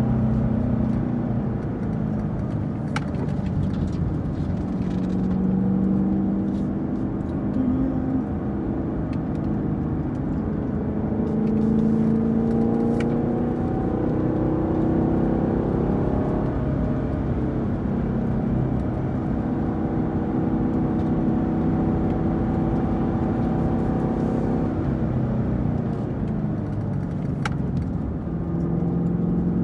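Camaro SS 1LE's 6.2-litre V8 running at moderate revs, its pitch rising and falling gently, with steady road noise; the car is being driven easily to warm it up.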